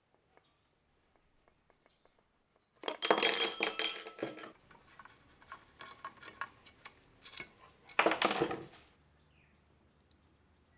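Small metal parts and tools clinking and clattering as they are handled on a workbench, in two short busy bursts with scattered clicks between.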